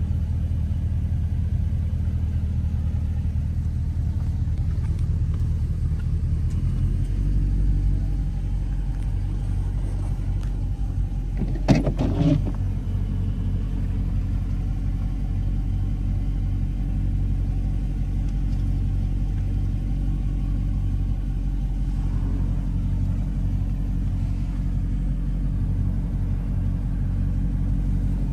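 Dodge Scat Pack's V8 engine running at low, steady revs with a deep rumble, its pitch dropping to a lower drone about six and a half seconds in. A brief sharp knock or clatter cuts through near the middle.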